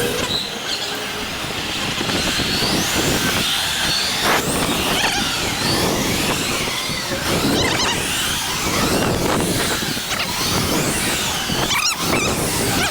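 Electric bike motors whining, the pitch rising and falling again and again as the riders throttle on and off, over wind and road noise.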